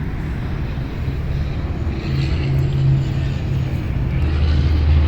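Steady low engine drone, with a deeper tone swelling louder near the end.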